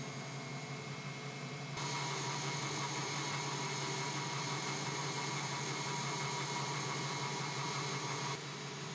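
Steady mechanical hum. A louder, even machine whir with a few steady tones starts suddenly about two seconds in and stops suddenly near the end.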